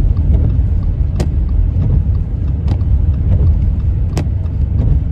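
Car driving: a steady low rumble of road and engine noise, with a sharp click repeating about every second and a half.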